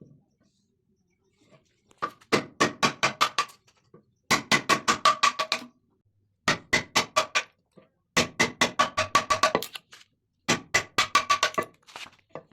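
Rapid hammer blows on ringing steel, in five bursts of about six strikes a second with short pauses between.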